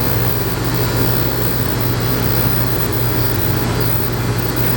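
Electric dog grooming clippers with a #10 blade running steadily as they trim the hair on a dog's face, a constant even hum.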